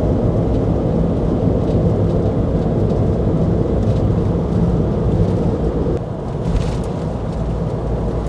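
Cab-over camper driving at highway speed, heard from inside the cab: a steady low engine and road rumble with a hum. About six seconds in it drops a little in level.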